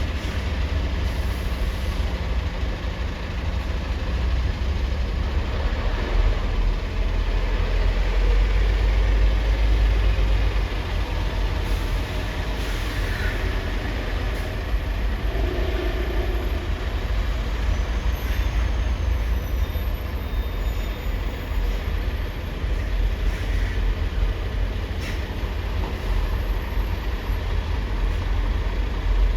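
Heavy engines running with a steady deep rumble, with a few faint, brief high squeals around the middle.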